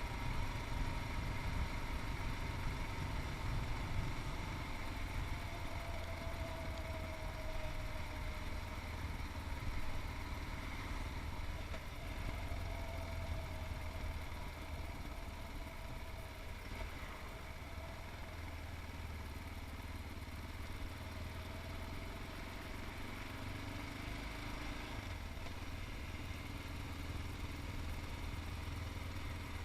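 Yamaha MT-03's 660 cc single-cylinder engine running steadily while the motorcycle is ridden, its note drifting a little lower and then rising again near the end.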